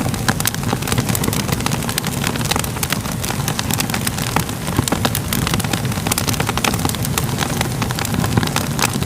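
Fire crackling: many sharp pops and snaps over a steady low rumble.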